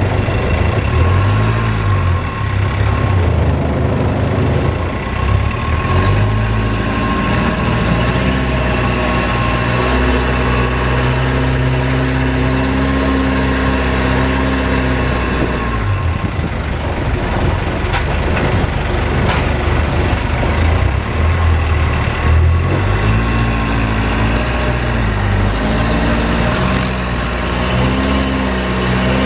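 High-speed canal boat's engine running hard, its pitch stepping up and down several times as the throttle changes. For several seconds around the middle the engine note gives way to a rushing noise.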